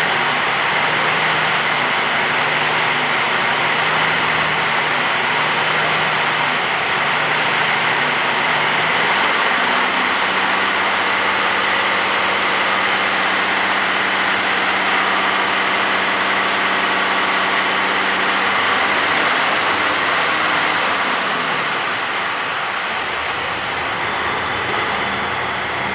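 DAF XG 480 tractor unit's PACCAR MX-13 straight-six diesel running at idle, with a steady high whine over it. The engine note steps up about nine seconds in and settles back down around twenty seconds in.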